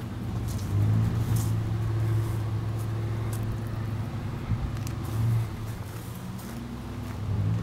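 1955 Cadillac's V8 idling steadily, a low even hum that swells slightly about a second in and again about five seconds in.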